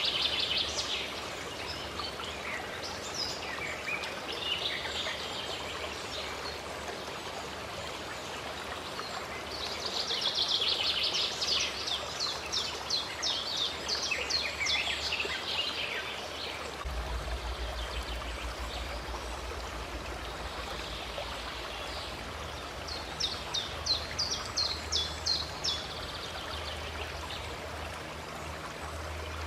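A stream running steadily with birds singing over it. Twice a bird gives a fast series of short, high repeated notes, once about a third of the way in and again near the end.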